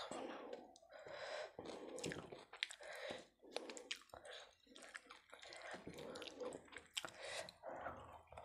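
Close-up eating sounds of chicken kosha eaten by hand: irregular wet clicks and squishes of chewing, mixed with fingers pulling chicken apart in the gravy.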